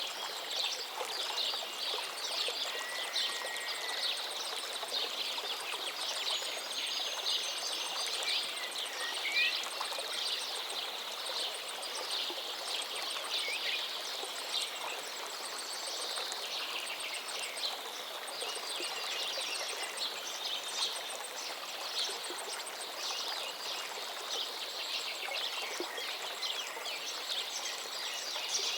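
River water running steadily, with small birds chirping and calling throughout and the odd short whistle rising above it.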